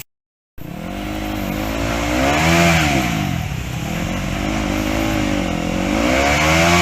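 Trail motorcycle engine revving hard under load. It rises to a peak twice and drops back between, after a brief dropout to silence at the start.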